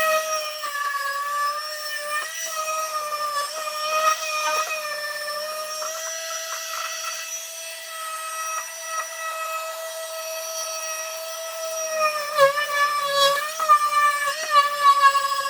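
Small electric power tool motor running steadily with a constant whine. Its pitch dips briefly and it gets rougher about twelve seconds in, as if it takes more load against the work.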